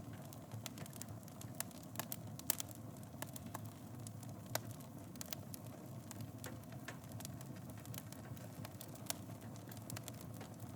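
Wood fire burning in a fireplace: a steady low rumble of flames with frequent small crackles and a few louder pops.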